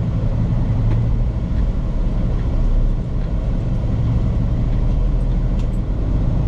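Semi truck's diesel engine running steadily under way, heard from inside the cab as a deep, even drone.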